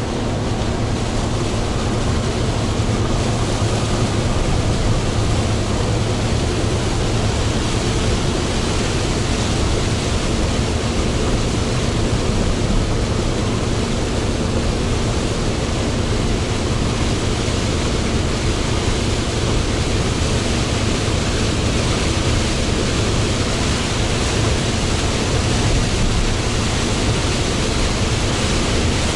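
Hino Profia heavy truck running at expressway speed on a rain-soaked road: a steady rush of tyre spray, rain and wind over the low, even drone of its diesel engine.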